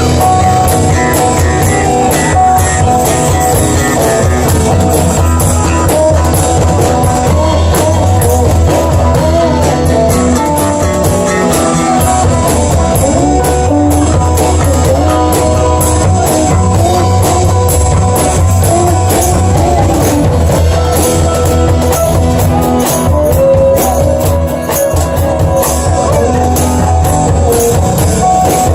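Live band jam: guitar played over a drum kit in a bluesy rock groove, continuous and loud.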